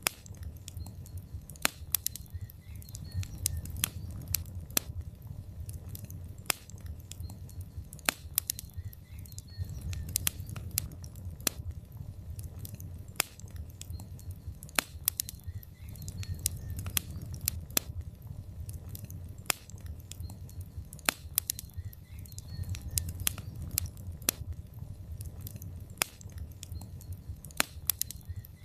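Wood fire in a fireplace crackling and popping, with frequent irregular sharp snaps over a low, steady rumble of flame that swells and eases every few seconds.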